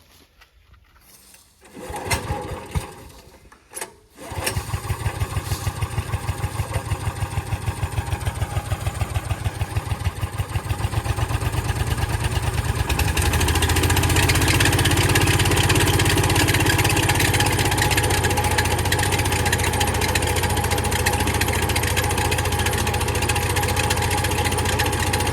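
Duromax gasoline engine in a 1974 Melroe M371 skid steer being cold-started on choke with a newly fitted carburettor: a couple of seconds of cranking and sputtering, then it catches about four seconds in. It runs with a slow, even beat at first, then speeds up and settles into a steady run about ten seconds later.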